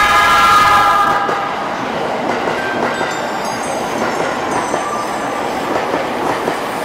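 A JR E231 series commuter train sounds a steady horn as it arrives, and the horn stops about a second and a half in. The train then rolls in along the platform with a continuous rumble and the clatter of its wheels on the rails.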